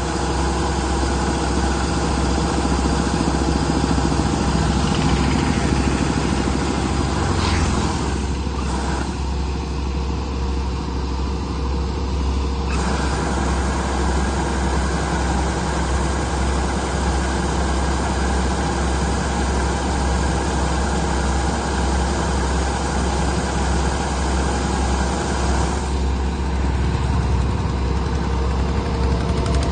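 A heavy machine's engine running steadily with a deep hum. The higher part of the sound drops away for a few seconds about a third of the way in.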